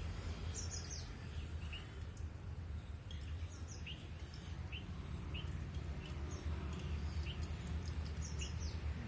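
Small birds chirping, short high chirps repeated every half second to a second, over a steady low rumble of background noise.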